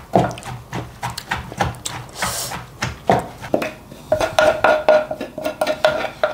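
Wooden pestle knocking and mixing papaya salad in a Thai krok mortar, about two to three knocks a second.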